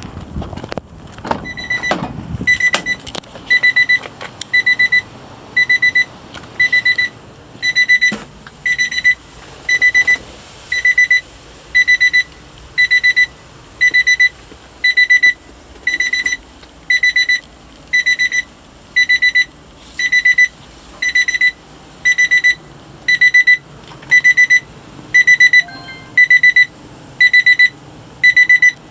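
Electronic warning beeper on a Honda Acty mini dump truck, sounding a steady high-pitched beep about once a second.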